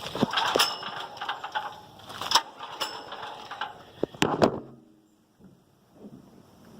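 Recoil starter of a 5200-watt portable generator being pulled a few times, rasping and clicking as the engine cranks without catching. It goes nearly quiet for about a second near the end.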